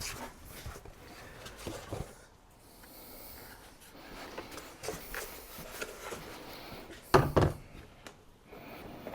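Plastic engine-bay trims and sound-deadening covers being handled, rubbed and pushed into place, with a pair of louder bumps about seven seconds in.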